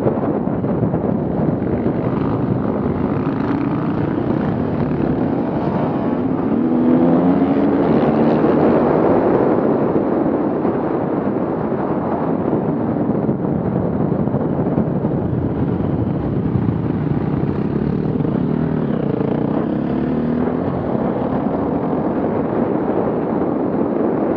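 Off-road vehicle engines running under load, revving up and down twice as they work through the course.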